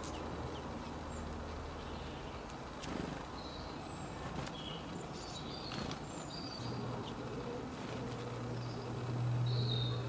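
Garden ambience: scattered short, high bird chirps and a few faint clicks over a steady background hiss. A low steady hum comes in about two-thirds of the way through and grows louder near the end.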